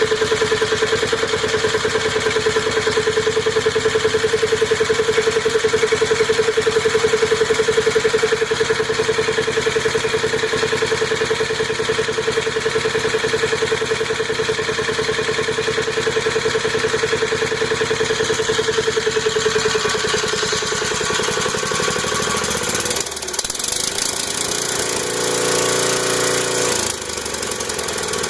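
Allis-Chalmers minibike's small engine running with a rapid, even putter, newly brought back to running order. Its note changes in the last several seconds, with two brief dips in level.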